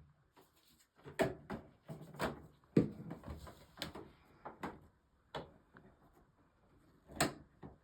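Hands handling the plastic parts of a front-load washing machine: a run of irregular clicks and knocks, with the loudest knock about three seconds in and another near the end.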